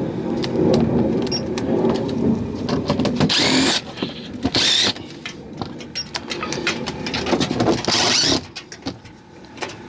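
Power drill driving screws for about three seconds, followed by three short harsh bursts and scattered clicks, as the HVAC unit's panel is fastened back on.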